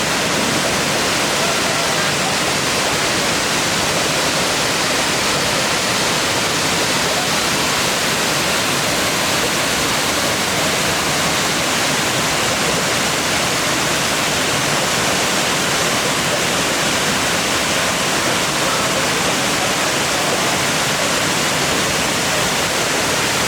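A waterfall pouring into its plunge pool: a loud, steady rush of falling water.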